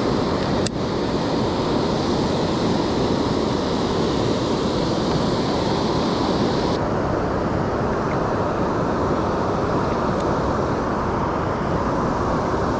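Rushing river current, a steady loud wash of moving water, with wind buffeting the microphone. A single sharp click comes under a second in, and the higher hiss drops away about seven seconds in.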